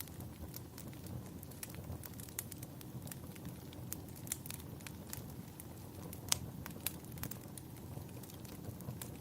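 Wood fire in a fireplace crackling, with irregular sharp pops over a low steady rumble; the loudest pop comes about six seconds in.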